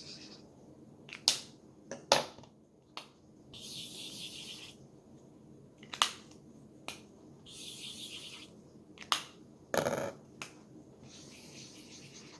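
Felt-tip markers drawing swirls on printer paper: three scratchy strokes of about a second each, with sharp taps and clicks in between as markers touch down or are set down and picked up.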